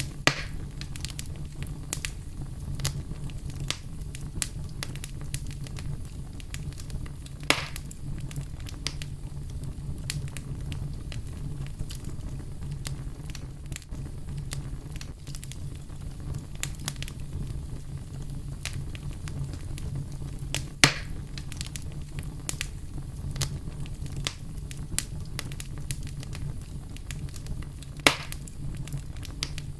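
Wood fire crackling, with a steady low rumble under constant small crackles and a few louder pops: one right at the start, one about seven seconds in, one about twenty-one seconds in and one near the end.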